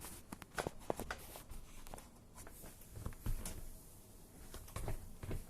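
Scattered light clicks, taps and dull knocks of hands handling plastic parts at the base of a dishwasher.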